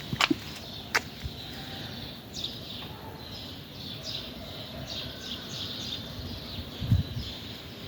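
Birds chirping and singing outdoors, many short calls throughout, with two sharp clicks near the start and a low thump near the end.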